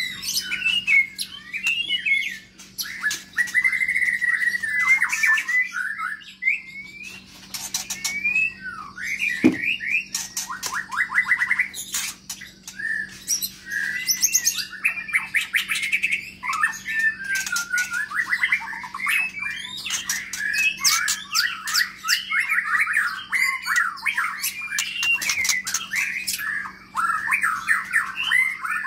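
Long-tailed Medan white-rumped shama singing a continuous, varied song of fast whistled phrases and warbles, with many sharp clicking notes mixed in.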